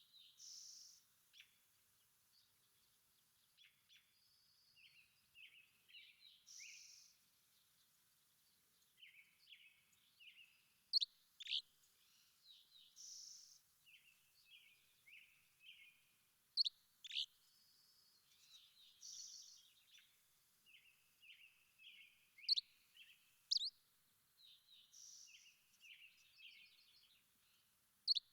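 Several songbirds calling and singing: soft chirping phrases run throughout, broken by a loud, sharp two-note call that comes about every five to six seconds.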